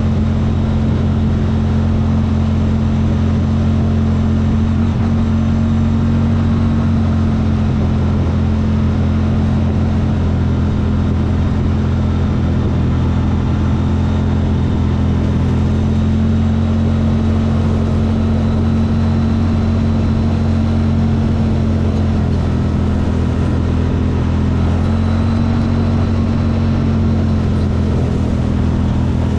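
CFMoto engine running at a steady speed, a low, even drone with no revving.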